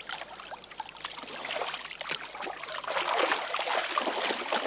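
Swimming-pool water splashing and lapping, louder after the first couple of seconds.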